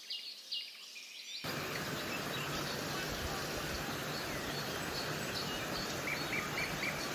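Birds chirping in tropical forest ambience: scattered short high chirps, with a quick run of four chirps near the end. About a second and a half in, a steady outdoor hiss comes in underneath.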